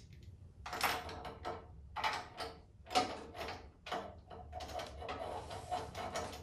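Cub Cadet snowblower's recoil starter cord pulled over and over, a short rasping whirr about once a second, while the engine does not catch.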